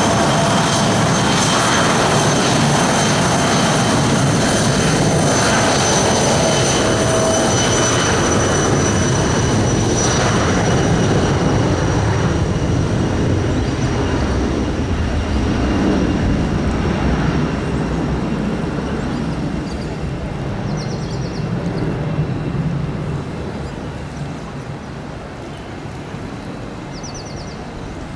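Jet aircraft engines running, a loud rush with a steady high-pitched whine, fading away over the second half as the aircraft moves off.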